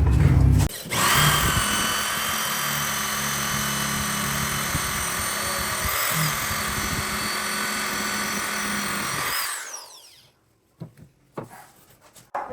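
Electric power tool running at steady speed with a high whine, switched off about nine seconds in and winding down to a stop. A few light knocks follow.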